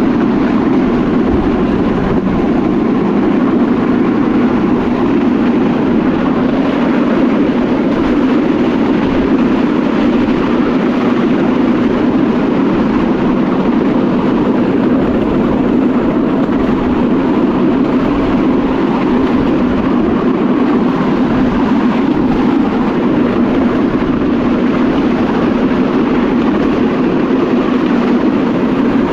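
Battambang bamboo train running along the track: a loud, steady drone of its small engine and wheels on the rails.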